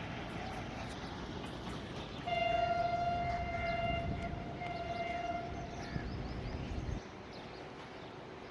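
The locomotive of a passing Pakistan Railways express train sounds its horn, one long blast and then a short one, over the rumble of the train running through the station. The rumble cuts off abruptly near the end.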